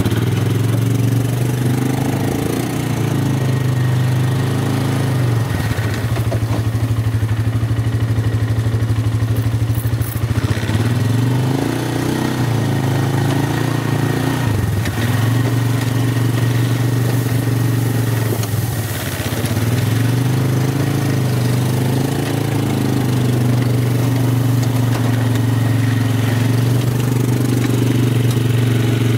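Vehicle engine running while driving, its pitch dropping and picking up again several times as it slows and speeds up.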